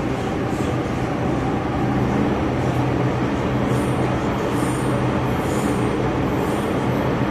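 MTR Kwun Tong Line M-Train running along the track: a steady, dense rumble of wheels and running gear with a low hum. Faint short high-pitched wheel squeals come in a few times in the second half.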